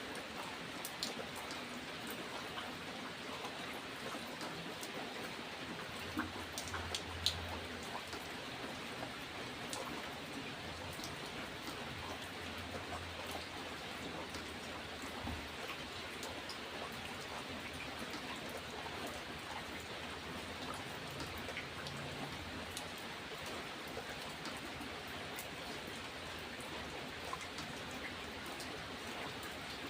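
Steady rain falling, with individual drops ticking sharply on a surface; a few louder drop hits stand out about a second in and again around six to seven seconds in.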